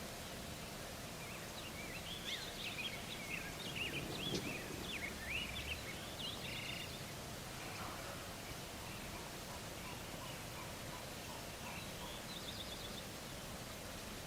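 Wild birds calling outdoors: a busy run of short, sliding high chirps in the first half, then scattered notes and a brief trill near the end, over a steady background hiss.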